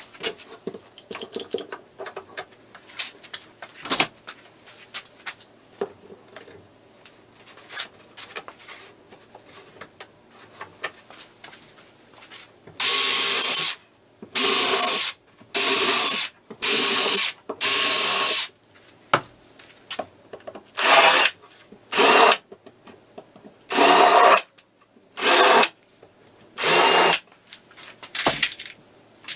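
Cordless drill run in about ten short bursts, each under a second to about a second and a half, after a stretch of light clicks and knocks of parts being handled.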